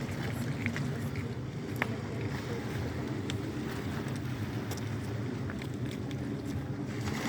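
Steady low rumble of sea surf in the dark, with a few faint clicks.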